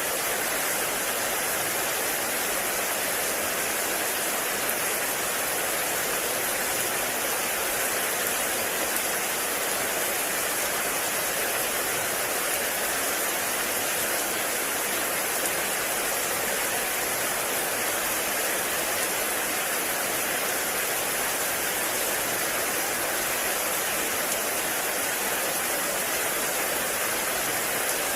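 Heavy rain falling steadily in a forest, an even, unbroken hiss of rain with no distinct drops or other events.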